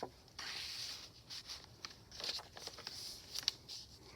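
Paper pages of a handmade journal being turned and handled: a brief rustle, then a run of short crinkling crackles.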